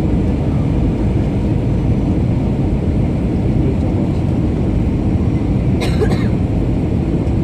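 Steady roar of an Airbus A321's engines and airflow heard inside the cabin, with a brief cough-like sound about six seconds in.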